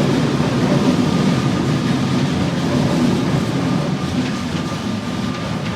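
Train rumbling steadily, with a faint steady whine above the low rumble; the sound eases off slowly toward the end.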